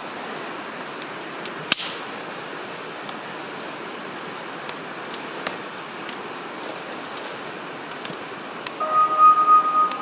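Wood fire crackling over a steady hiss, with scattered sharp snaps and one loud pop about two seconds in. Near the end a steady whistling tone sets in and grows loud.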